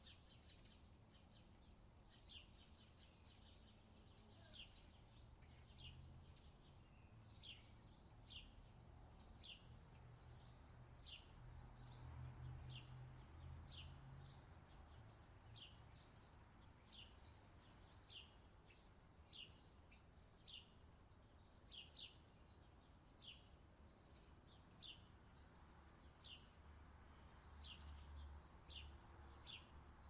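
Faint countryside ambience: a small bird chirping over and over, short high downward-sweeping chirps about once a second, over a faint low rumble.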